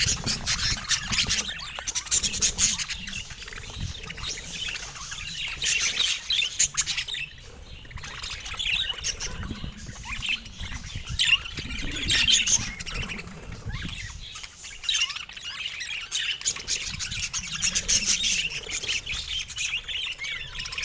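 Budgerigars chattering: a steady stream of chirps, squeaks and warbles, with short clicks mixed in.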